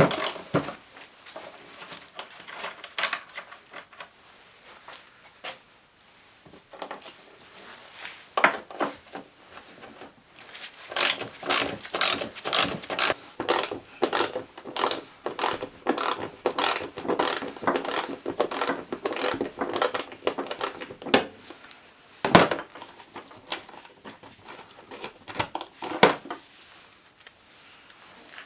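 A ratchet wrench clicking in quick runs of strokes, densest through the middle, among scattered tool and metal-part clinks. Two louder single knocks come in the last third.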